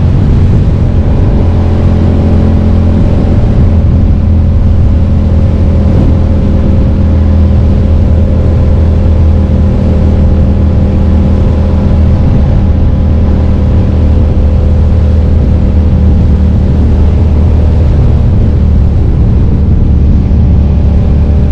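2005 Suzuki SV650S's 90-degree V-twin engine running under way at a steady, nearly constant engine speed, picked up by a mirror-mounted camera, with a steady rush of noise underneath.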